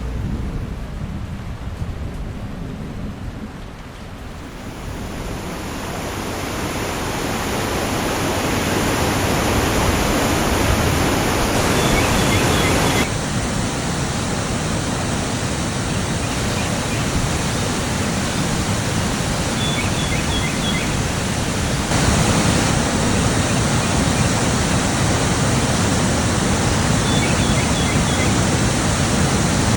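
Steady rushing noise of water, loud and even, swelling in over the first few seconds and shifting abruptly twice; a few faint high chirps come through above it.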